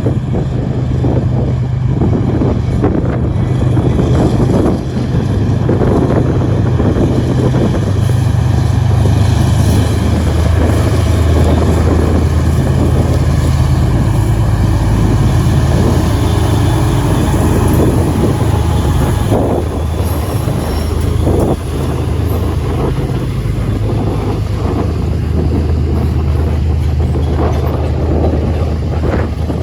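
Diesel locomotives leading a loaded CSX grain train, their engines running with a steady low drone whose pitch shifts a couple of times as the train passes.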